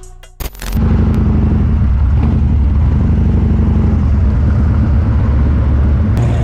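Motorcycle riding at a steady speed, its engine running evenly with a deep, dense low sound that cuts in abruptly under a second in.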